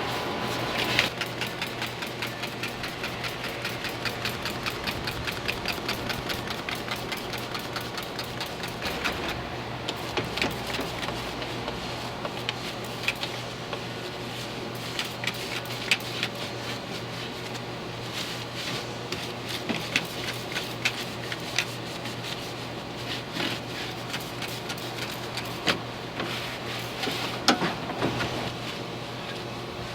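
Small soft-bristle brush scrubbing soapy grime off engine parts in quick, rhythmic back-and-forth strokes, with a few louder knocks of the brush against the engine.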